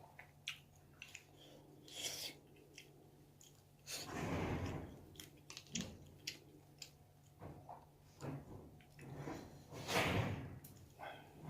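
Close-miked chewing and mouth sounds of a person eating, with many small clicks and smacks. Two longer, louder sounds of about a second each come about four seconds in and again near ten seconds.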